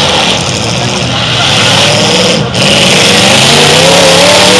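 Demolition derby car engines revving hard, their pitch sliding up and down, with a short dip about two and a half seconds in.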